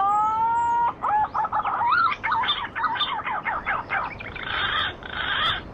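Bird calling: a long call that rises and then holds steady, ending about a second in, followed by a quick run of short, wavering calls, which give way to a steady hiss near the end.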